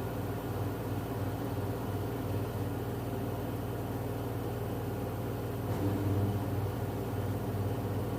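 LG F10B8MD front-loading washing machine running in its final spin cycle: a steady low hum that gets slightly louder with a new tone about six seconds in. No bearing drone or knocking, the machine running smoothly, which the owner takes as a sign it is in good order.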